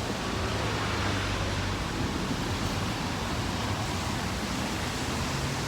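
Steady wash of wind and rain noise on a city street, with traffic on the wet road and a low vehicle engine hum in the first couple of seconds.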